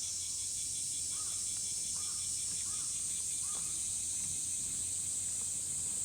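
Steady high-pitched chorus of insects in the forest, with a few short bird calls about a second to four seconds in.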